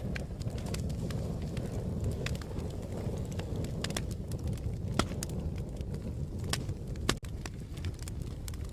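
Wood fire crackling: a steady low rush of flames with irregular sharp pops and snaps, two of them louder, about five and seven seconds in.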